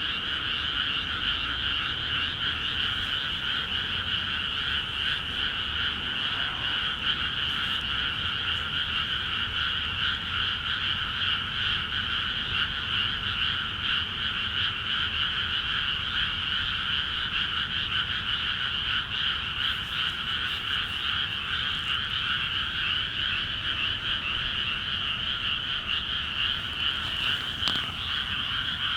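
A dense chorus of many frogs calling all at once in newly flooded rice paddies, a steady, unbroken wall of overlapping croaks. This is the breeding chorus that starts when water is let into the paddies.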